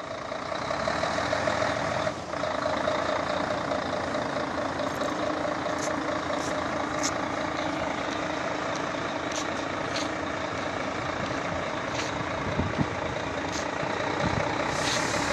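Mercedes-Benz Actros truck's engine running steadily, with a few brief high clicks over it.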